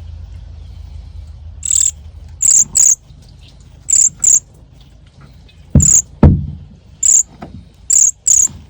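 Baby birds begging with short, shrill chirps, mostly in quick pairs, at uneven intervals. Two low thumps come about six seconds in.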